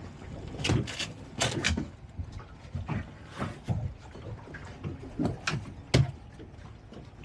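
Irregular thumps and knocks, about nine in all, from seat cushions and a storage locker lid being handled on a small open motorboat, the loudest knock about six seconds in.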